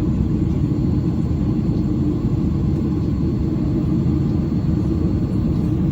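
Steady low rumble of a Boeing 737's engines and airframe heard from inside the passenger cabin.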